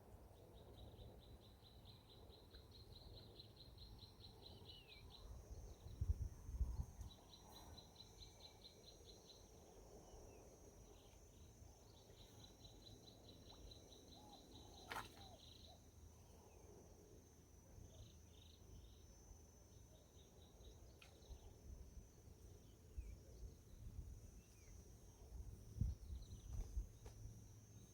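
Faint ambience of calling insects and birds: rapid pulsed trills in phrases of a few seconds, over a steady high-pitched insect drone that sets in about five seconds in. A few low bumps come about six seconds in and again near the end.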